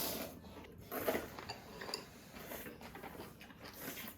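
Eating utensils clicking and clinking against bowls and dishes, a few scattered light clinks.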